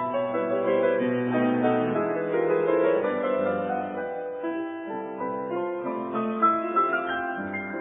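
Background piano music, notes played in a flowing melody with chords.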